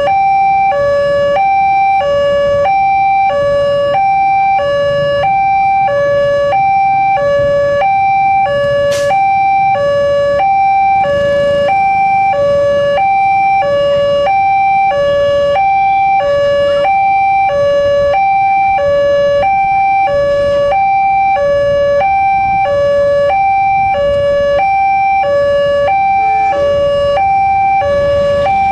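Railroad level-crossing warning alarm sounding: an electronic two-tone signal alternating steadily between a lower and a higher note, about one high-low cycle a second, warning of an approaching train. Faint traffic noise runs underneath.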